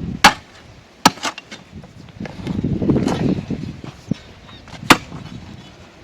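Post-hole digger blades striking hard, stony ground: four sharp chopping strikes, with a duller scraping of soil and stone in the middle.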